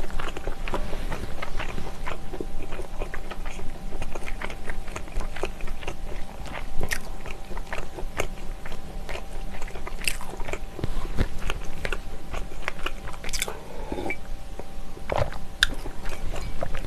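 Close-miked chewing of braised ox knee with flat glass noodles: a steady run of small wet mouth clicks, with a few sharper clicks along the way.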